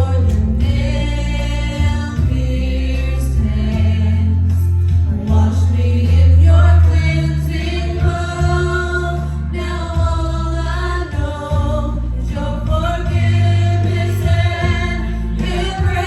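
Gospel-style worship song: a group of voices singing long held notes over a strong stepping bass line.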